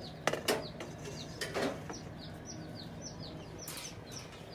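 Baby chicks peeping: many short, high chirps that fall in pitch, repeating several times a second. A few knocks and bumps come through early on and again about one and a half seconds in.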